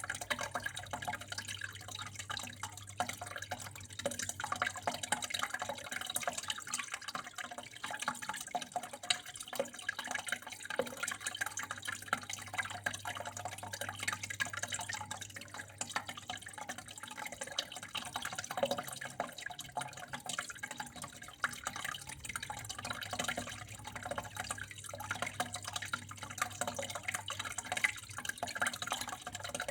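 Water running and trickling steadily, with a dense patter of small drips and splashes.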